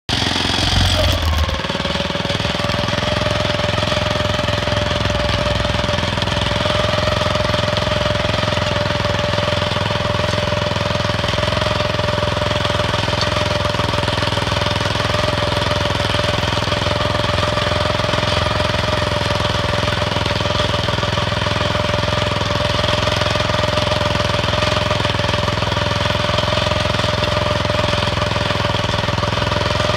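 Planet Jr tractor's engine running steadily under load as it pulls finger weeders through an onion bed, with a steady whine over the engine noise.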